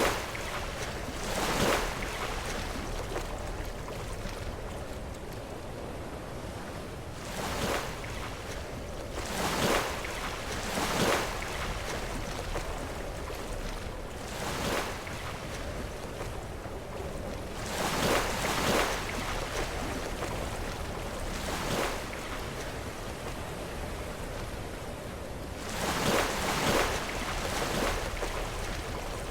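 Sea waves crashing against shoreline rocks in repeated surges every few seconds, over a steady wash of surf.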